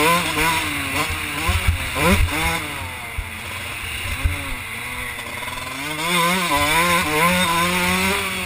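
2001 Kawasaki KX 125's two-stroke 125 cc engine revving up and down as the throttle is opened and closed: the pitch climbs about two seconds in, drops, and climbs again over the last few seconds.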